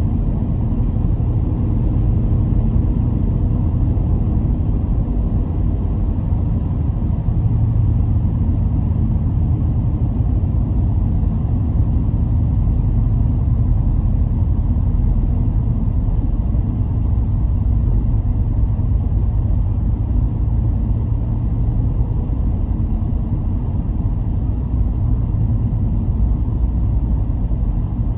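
Car driving at a steady pace: a constant low rumble of engine and tyres on the road, with no gear changes or sudden sounds.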